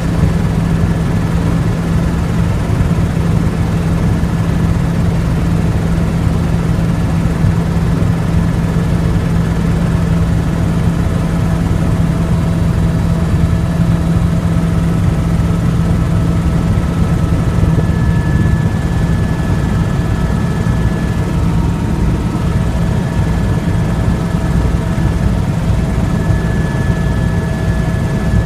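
Helicopter running steadily, a loud constant rotor and engine noise with a low hum and a few faint steady higher-pitched tones above it.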